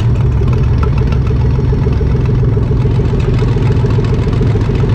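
A 2005 Chrysler Town and Country minivan's V6 engine idling steadily, heard from inside the stripped-out cabin.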